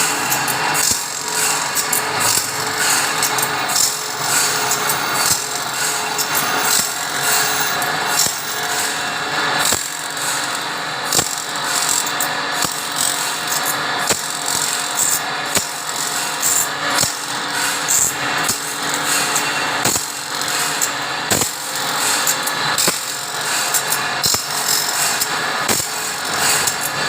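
Power tool running steadily in a saw-sharpening workshop, with frequent sharp metallic clicks and knocks throughout.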